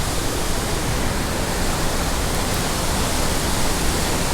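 Waterfall and cascading mountain creek water rushing in a steady, unbroken roar.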